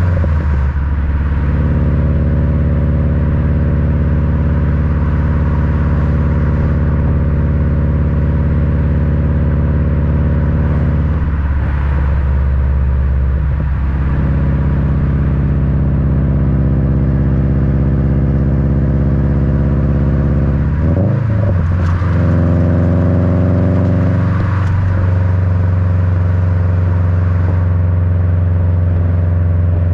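Exhaust rumble of a Subaru WRX's EJ255 turbocharged flat-four through an Invidia N1 dual cat-back, recorded right at the rear bumper, running steadily on the road. The engine note breaks and changes pitch briefly a few times, about 12 seconds in and again about 21 and 25 seconds in.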